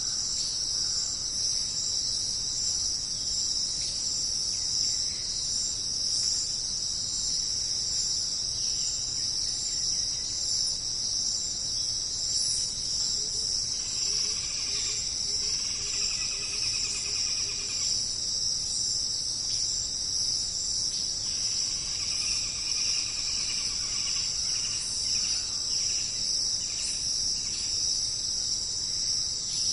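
A dense insect chorus, a steady high-pitched buzzing. Twice, about halfway through and again a little later, a second caller adds a pulsing trill for a few seconds.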